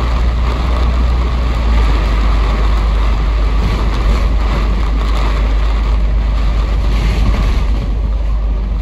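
Cabin noise inside a moving Kowloon Motor Bus (KMB) bus: a steady low engine rumble with road and tyre noise.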